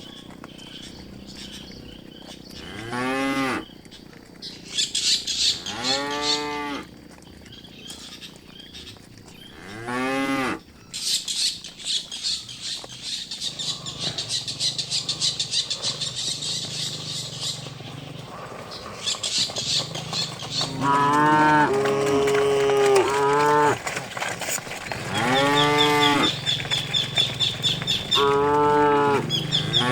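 Cattle mooing repeatedly, several long calls that rise and fall in pitch, a few seconds apart and coming thicker in the second half. Through the middle there is also a high, rapidly pulsing buzz.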